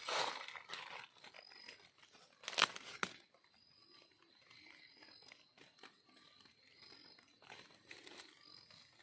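Dry leaf litter rustling and crackling as it is disturbed. The loudest moments are two sharp crackles about two and a half and three seconds in, followed by fainter rustling.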